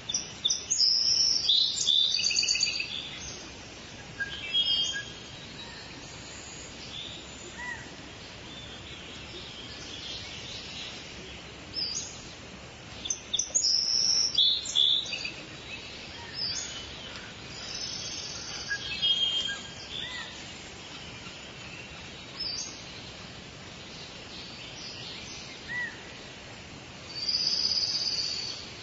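Forest songbirds singing in short chirping and trilling phrases over a steady background hiss. The loudest bursts of song come at the start, about halfway through, and near the end.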